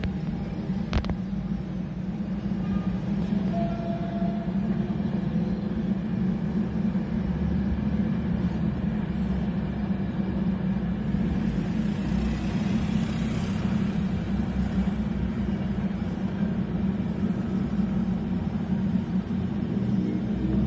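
Container freight train crossing a stone viaduct, a steady low rumble heard across the town. A single sharp click comes about a second in.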